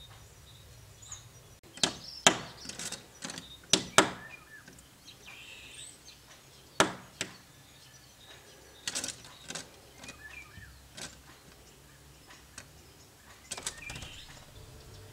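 Syrian woodpecker striking a window pane, attacking its own reflection: a few loud, sharp knocks on the glass in the first seven seconds, with lighter taps and scrabbling between and near the end.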